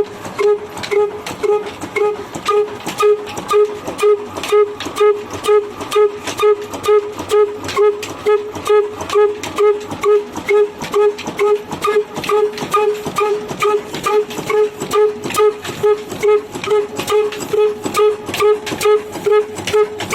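22 HP diesel oil engine running steadily under load, driving a stone wheat grinder, with an even beat of about two pulses a second.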